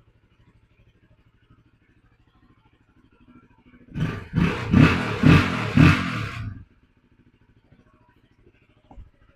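A 2023 UM RS 125 motorcycle's 125 cc engine firing up about four seconds in, revved in four quick throttle blips and then stopping abruptly after about two and a half seconds. A single faint knock near the end.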